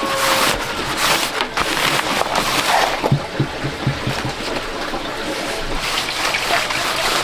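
Water sloshing and splashing, with irregular knocks and a few low thumps about three to four seconds in.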